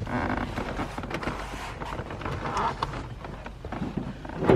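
Handling noises from small parts and tools: irregular clicks and rustles, with one sharper knock near the end.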